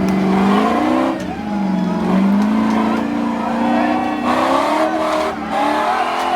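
Off-road 4x4 engine revving up and down repeatedly as it works through rough terrain, its pitch swelling and dropping about once a second.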